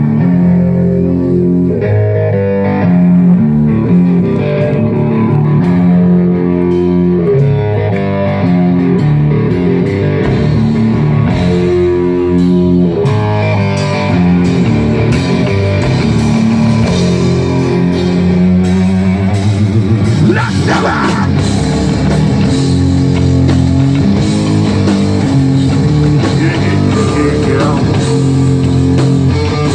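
Live rock band playing an instrumental passage: a repeating electric guitar and bass riff over drums. The cymbals grow louder about two-thirds of the way through.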